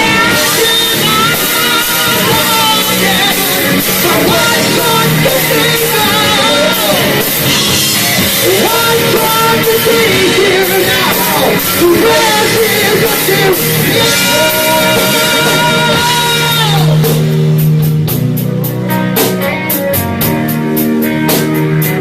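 Heavy metal band playing live: an instrumental stretch between sung lines, with sustained, bending electric guitar lines over bass and drums. Near the end, thick cymbal hits take over.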